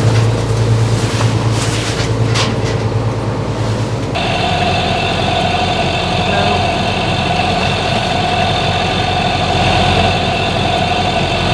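A boat's engine drones steadily. About four seconds in the sound changes abruptly, from a strong low hum with gusts of noise to a steadier hum with a higher whine.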